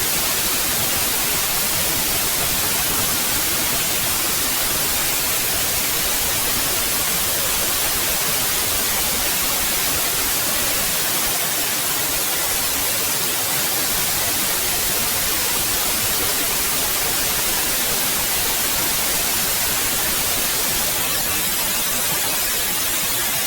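Steady synthetic white noise: an even, unbroken hiss, strongest in the highs.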